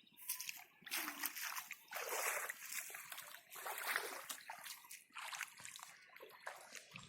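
Hands splashing and sloshing in shallow muddy water, in uneven bursts, while feeling for fish.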